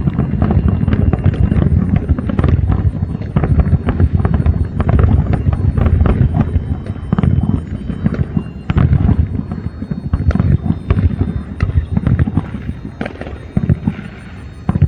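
Aerial fireworks going off in a rapid, dense barrage of bangs and booms over a continuous low rumble. The bangs thin out and grow quieter near the end.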